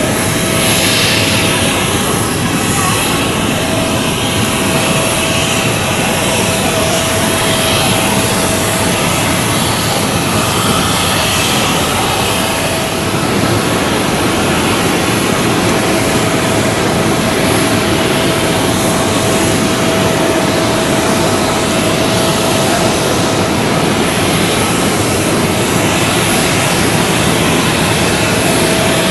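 Jet airliner engines running loudly and steadily, a dense, even noise with a thin steady whine through it.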